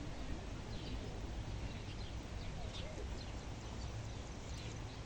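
Small birds chirping: many short, quick calls scattered throughout, over a steady low rumble.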